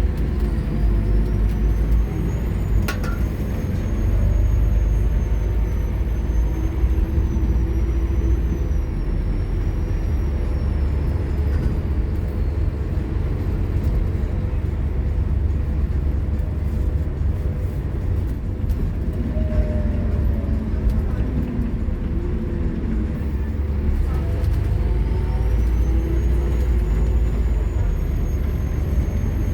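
Scania K230UB Omnilink bus's five-cylinder diesel engine working hard under acceleration, a steady heavy rumble. A high whine rises at the start, holds, then falls away about halfway through, and rises again near the end. There is a single sharp click a few seconds in.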